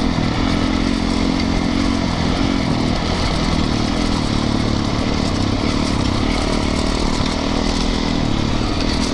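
Yamaha YZ450FX dirt bike's single-cylinder four-stroke engine running under steady throttle while riding, its pitch wavering only slightly, over a constant hiss.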